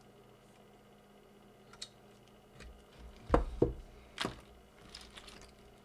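Things being handled on a workbench: a light click, then three solid knocks in a little over a second, with faint rustling after.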